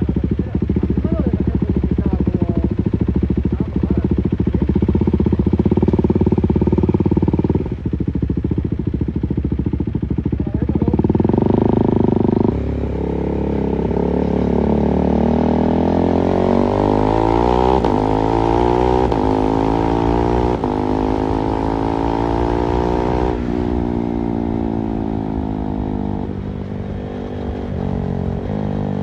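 KTM 390 Duke's single-cylinder engine riding along: steady revs, a brief dip about eight seconds in and a drop in pitch at a gear change about twelve seconds in, then a long rise in pitch over about ten seconds as the bike accelerates, falling away after as it slows.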